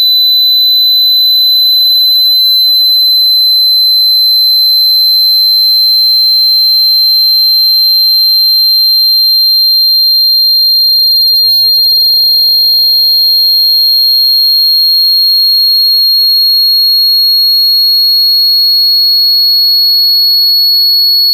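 Loud, high-pitched electronic sine tone, held steady and slowly gliding upward in pitch: a speaker-cleaning sweep tone meant to vibrate water and dust out of a phone speaker grill.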